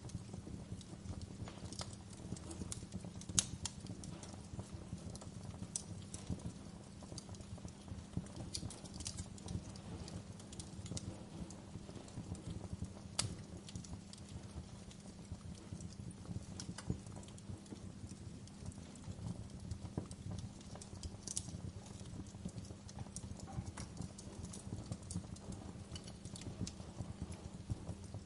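Fire burning with a steady low rumble and frequent small irregular crackles, with a few sharper pops.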